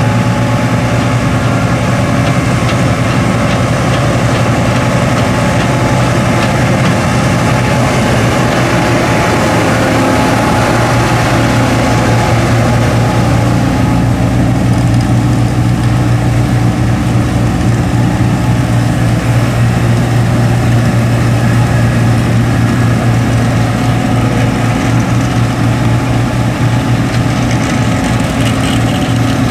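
John Deere 8820 Titan II combine's 225-horsepower turbocharged diesel running steadily while harvesting wheat, a loud, even machine drone.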